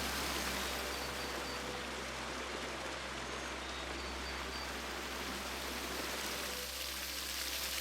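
Running water rushing steadily, the even sound of a stream or waterfall.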